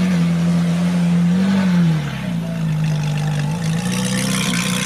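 Ferrari 458 Italia's V8 engine running at a steady pitch, rising briefly about a second and a half in and then settling back lower.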